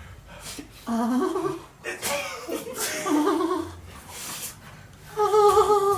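People laughing, with a voice making wavering, drawn-out vocal noises and breathy bursts; a long, loud, wobbling high-pitched note starts near the end.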